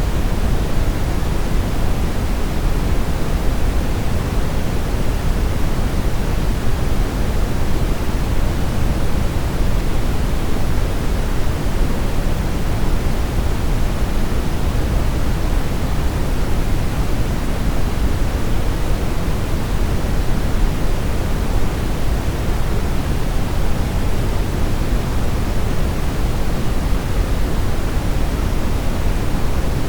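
Brown noise: a steady, deep rushing noise, heaviest in the bass and thinning toward the treble, unchanging throughout.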